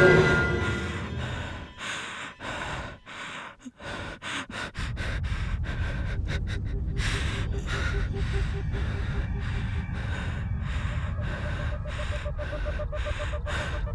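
A person breathing hard and gasping, in short uneven breaths, over a steady low rumble that comes in about five seconds in.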